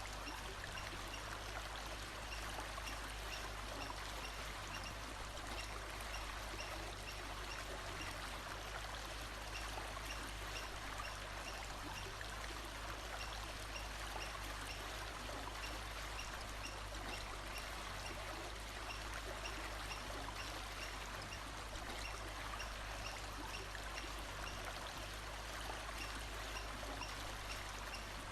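Steady rushing of a flowing stream. A faint high chirp repeats at an even pace throughout.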